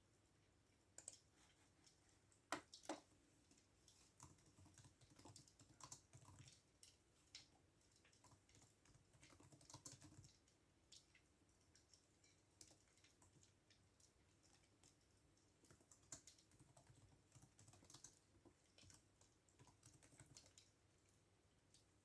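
Soft computer keyboard typing: irregular runs of key clicks broken by short pauses, with two sharper clacks about two and a half seconds in.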